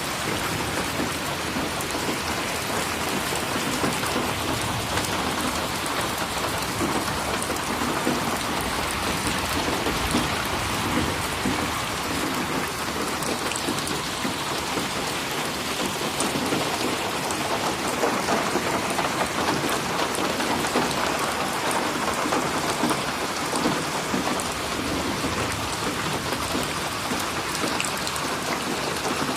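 Steady rain falling and splashing on a surface, an even dense patter with no thunder.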